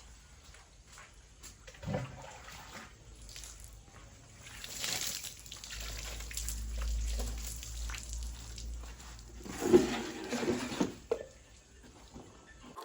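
Water splashing and trickling as a motorcycle is washed, in irregular spells with a few knocks, loudest about ten seconds in.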